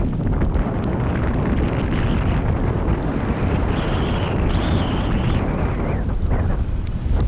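Gale-force wind buffeting the microphone: a loud, continuous rumble with a hiss that swells in the middle and eases about six seconds in.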